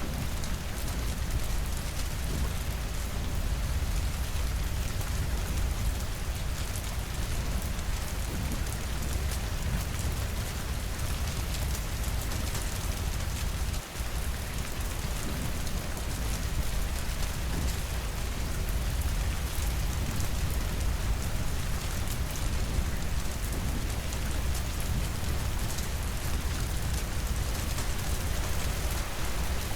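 Steady, even rainfall with a constant low rumble underneath and a momentary dropout about halfway through.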